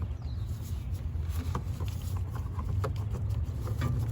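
Scattered light clicks and taps of hand tools reinstalling the two Torx screws that hold an ignition coil pack on the engine, over a steady low rumble.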